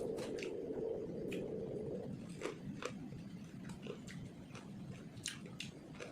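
A person chewing and biting food close to the microphone, with wet mouth smacks and small clicks scattered through, and a steadier low sound over the first two seconds.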